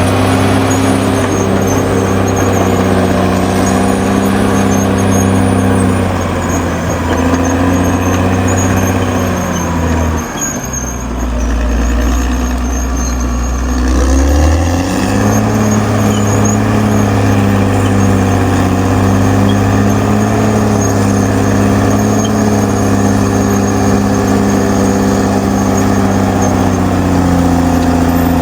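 Caterpillar D6R XL bulldozer's diesel engine running hard, with a thin high-pitched squeal over it. About ten seconds in, the engine note drops low for a few seconds, then climbs back up at about fifteen seconds and holds steady.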